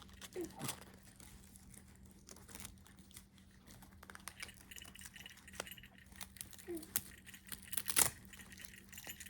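Handling noise of a baby play gym's fabric strap being fastened: scattered light rustles and clicks, with one sharper click about eight seconds in.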